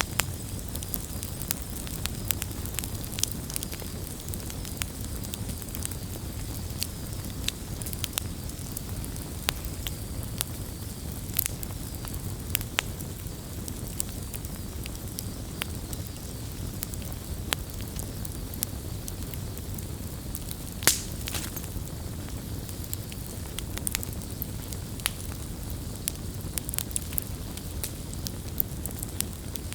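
Campfire crackling: a steady low rumble of burning wood with frequent small sharp pops. One louder pop comes a little past two-thirds of the way through.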